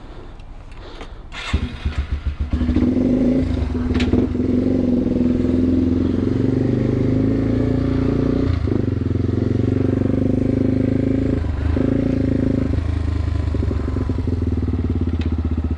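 Yamaha TW200's single-cylinder four-stroke engine picking up about a second and a half in as the motorcycle pulls away, then running steadily under way, with brief dips in pitch a couple of times.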